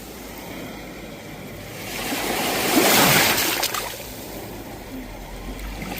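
Sea waves washing onto the shore. One wave builds about two seconds in, breaks loudest around the three-second mark, then draws back to a low wash.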